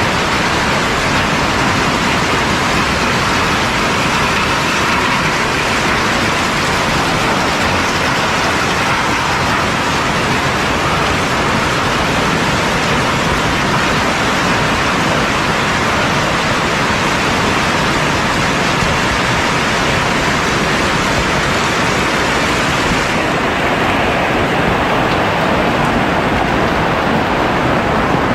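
Heavy rain falling steadily, a dense unbroken hiss. Near the end the highest part of the hiss drops away and the sound turns duller.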